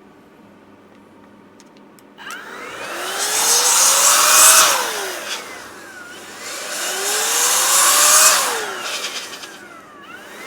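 A handheld electric air blower runs in two long bursts, each a rush of air with a motor whine that rises as it speeds up and falls when it is let off, as it blows dust out of a laptop's cooling fins. A third burst starts near the end.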